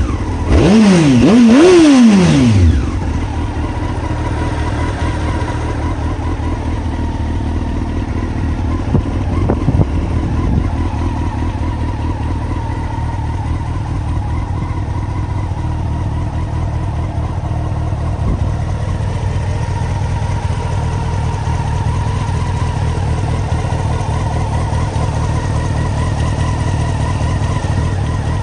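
Honda CBR954RR's inline-four engine breathing through a full titanium exhaust system. It is revved hard twice in the first couple of seconds, then settles to a steady idle.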